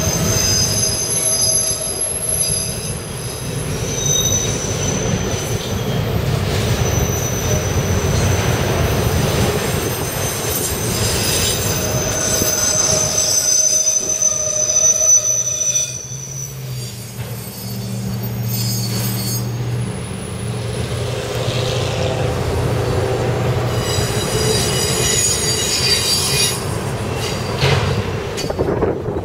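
Freight train of CSX autorack cars rolling past, steel wheels on the rails giving a steady rumble with thin, high squeals that come and go. A steady low hum joins for a few seconds past the middle.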